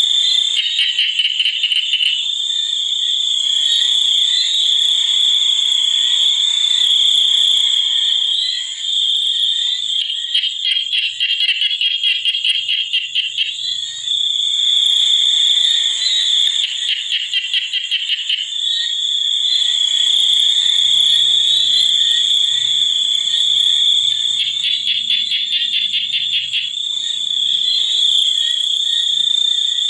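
Nature chorus of calling insects and frogs: a continuous high-pitched trill, with bursts of rapid pulsed calls every few seconds and faint low croaks in the second half.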